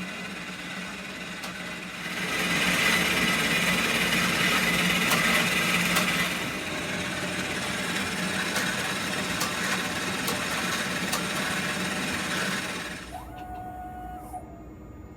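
Espresso Book Machine running as it prints and binds a book: a steady mechanical whir with scattered clicks, louder for about four seconds from two seconds in, then easing and dropping away near the end.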